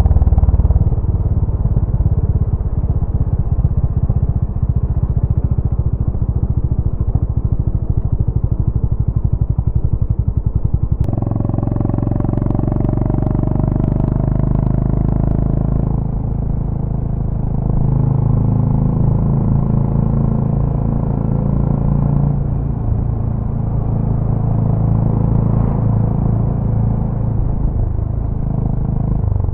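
Honda GB350's air-cooled single-cylinder engine and exhaust running with a steady, thumping firing pulse. The note changes abruptly about eleven seconds in and shifts again a couple of times after that.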